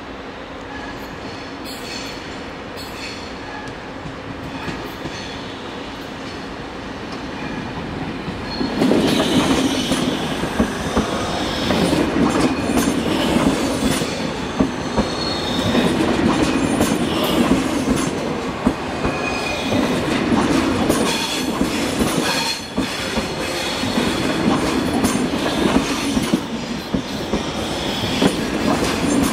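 ÖBB Railjet passenger train rolling slowly into the platform over the points: a steady low hum at first, then from about nine seconds in a much louder run of wheels clicking over rail joints and switches as the carriages pass close by, with brief high wheel squeals.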